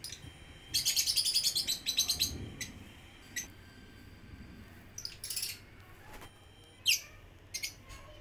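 Small birds chirping: a fast, rapid run of high chirps lasting about a second and a half near the start, then scattered single chirps.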